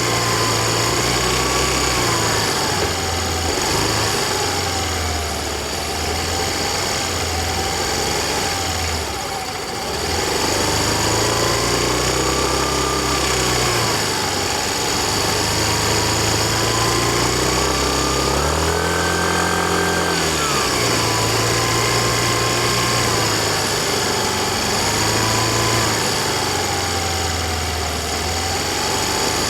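Yamaha Fazzio scooter's 125 cc single-cylinder engine running under way, its pitch rising and falling with the throttle. It eases off briefly about a third of the way in, then climbs to its highest pitch about two-thirds of the way through.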